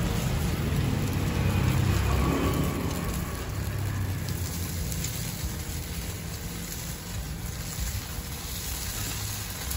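Rice-flour batter sizzling in a black multi-cup pancake mold pan over a wood fire, a steady hiss. A low rumble fills the first three seconds, then fades.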